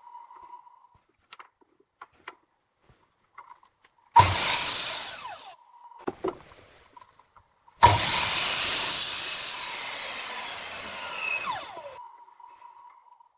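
Woodworking power tool working wood in two loud bursts, the first starting suddenly about four seconds in and the second, longer one about eight seconds in, with light knocks in the quieter stretches.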